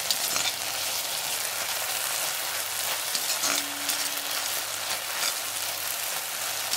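Sliced onions and garlic frying in hot oil with chilli and soy sauce in a wok: a steady sizzle as they are stirred and mixed with a spatula, with a few scrapes of the spatula against the pan.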